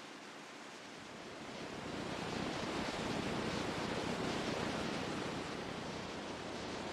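Ocean surf: a rushing wash of waves that swells up from about a second in, peaks mid-way and eases back slightly.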